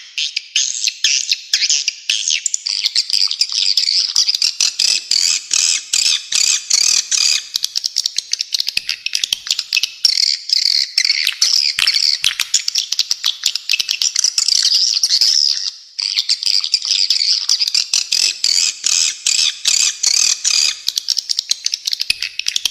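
Swiftlets calling: a dense, fast stream of high chirps and clicks with a brief break about two-thirds of the way through.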